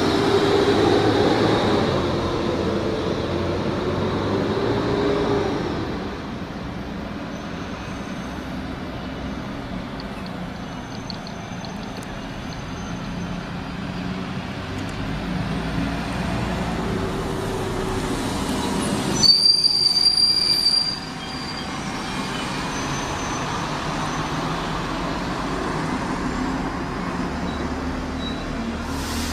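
A train running along the track, its wheels squealing with wavering tones in the first few seconds. About two-thirds of the way through, a louder burst with a sharp high squeal lasts under two seconds and cuts off suddenly.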